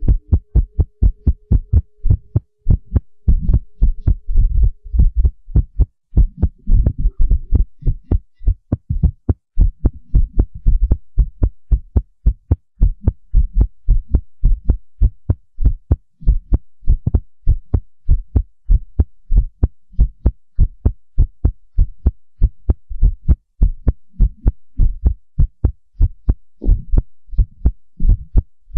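Heartbeat: a steady, even run of low lub-dub thumps.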